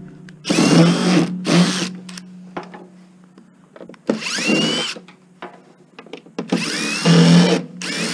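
Power drill-driver running in about four short bursts, its motor pitch rising as each spins up, removing the screws that hold the legs on an 8-track stereo player.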